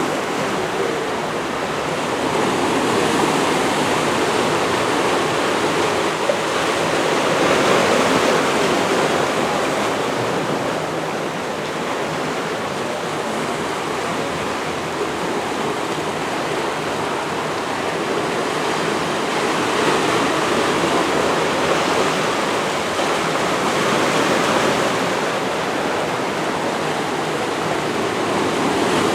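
Steady rushing of water and wind, swelling and easing slowly every few seconds.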